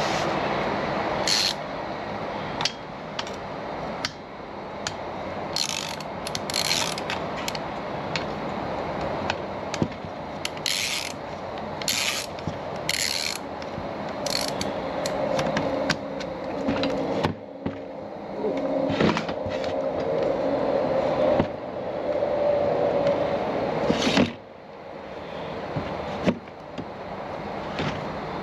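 Small two-stroke engine of a Stihl FS 55 RC string trimmer running unevenly, with a steady mechanical rattle and frequent sharp clicks; its pitch holds steadier for several seconds in the middle.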